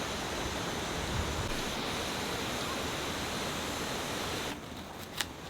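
Steady rushing of flowing river water that cuts off abruptly about four and a half seconds in, followed by a single sharp click.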